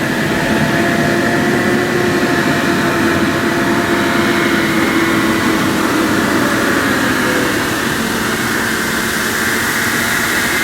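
John Deere 6155R tractor engine running steadily under working revs, its pitch easing down slightly in the second half.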